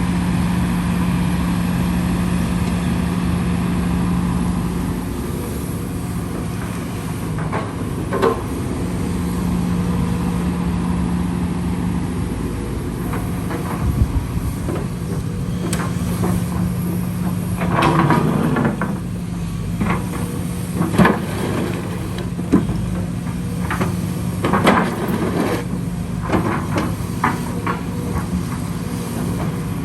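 Heavy earth-moving machine engine running steadily, with scattered sharp knocks and clatter in the second half.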